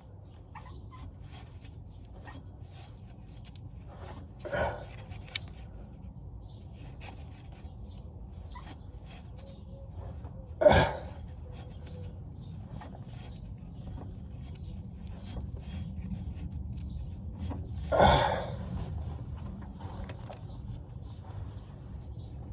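Hand-tool work on the bolts of a plate at the back of an engine: many small clicks and taps over a low steady hum, with three louder sudden sounds, the loudest about eleven seconds in.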